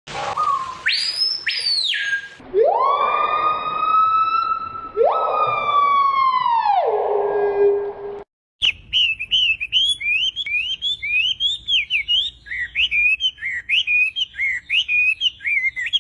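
Bird calls in two parts. First comes a high whistle that rises and falls, then two long wailing calls that rise, hold and drop away like a siren. After a short break about eight seconds in, a rapid stream of high chirps and tweets begins.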